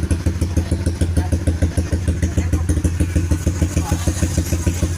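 Honda CBR150R's single-cylinder engine idling steadily through an aftermarket Norifumi-style racing exhaust, with an even, low-pitched pulse.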